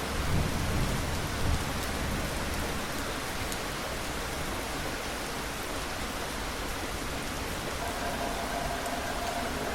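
Steady rain falling, an even hiss of drops, with a low rumble in the first couple of seconds.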